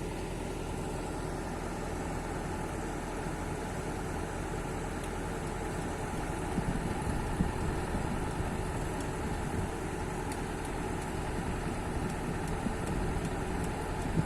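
Excavator engine idling steadily, with a few faint knocks from about six seconds in.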